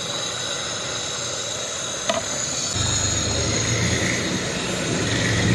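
Beef frying in ghee in a pot, a steady sizzling hiss, as yogurt is tipped in and stirred with a steel ladle. A single sharp clink about two seconds in, and a low rumble joins a little after.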